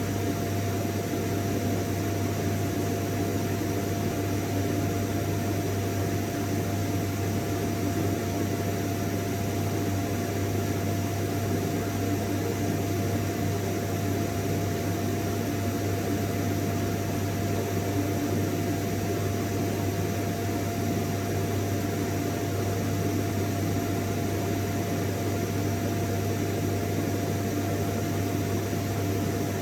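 Vacuum cleaner running continuously at a steady pitch: a low motor hum under a rush of air, with a faint steady whine, unchanging throughout.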